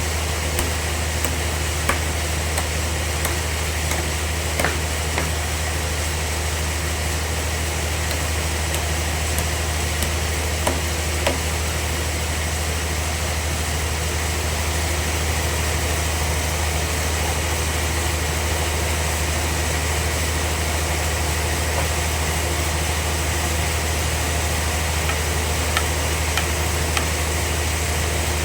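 Band sawmill machinery running steadily: a constant low hum with a few faint clicks here and there.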